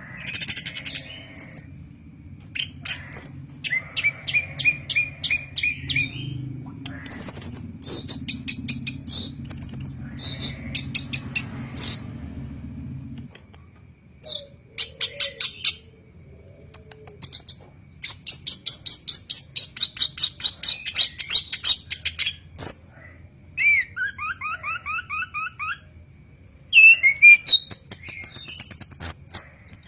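Chestnut-backed thrush (anis kembang) singing loud phrases of rapid repeated notes, fast trills and short high whistles, with brief pauses between phrases.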